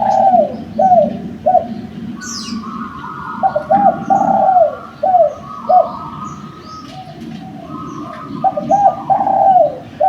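Spotted doves (derkuku) cooing in repeated phrases of several hollow coos, a new phrase every four to five seconds, with small birds chirping in the background.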